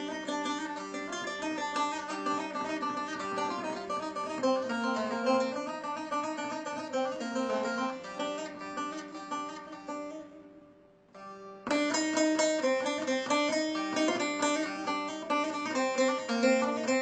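Bağlama (saz) playing a quick plucked melody of Turkish folk music over a steady held low note. It fades out about ten seconds in and starts again abruptly about a second and a half later.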